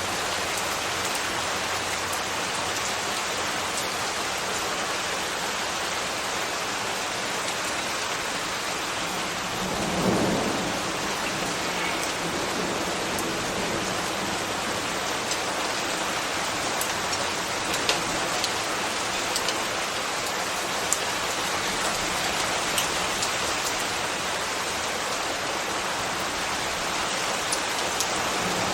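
Steady rain with a dense, even hiss. A brief low rumble swells and fades about ten seconds in, and scattered sharp drip ticks stand out in the second half.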